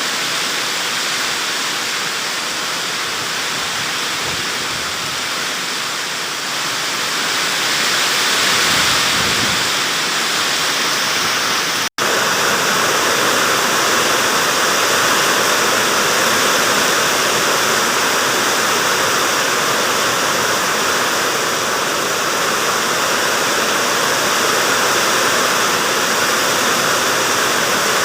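Heavy storm rain pouring down with strong wind, a loud steady rushing hiss that swells for a few seconds and cuts out for an instant near the middle.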